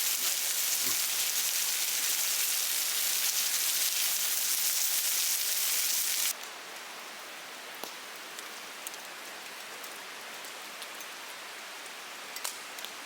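Meat sizzling loudly as it grills, then a sudden drop about six seconds in to a quieter hiss with a few small crackles.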